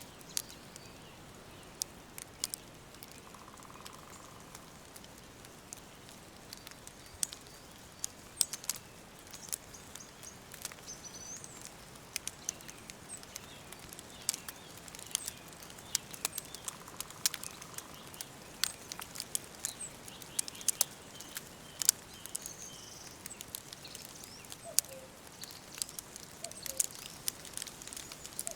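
Wood fire crackling, with irregular sharp pops and snaps over a steady soft hiss, while small birds chirp faintly in the background.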